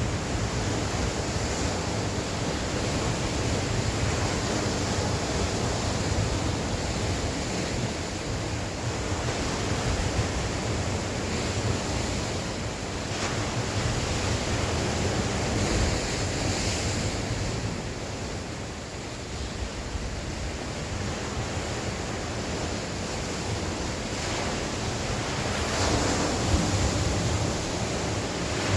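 Sea waves breaking and washing on the shore in a steady surge that swells and ebbs, with wind buffeting the microphone.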